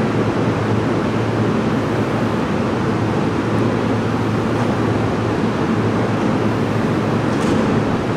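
JR Takasaki Line train at the station, a steady loud rumble of noise with a constant low hum underneath.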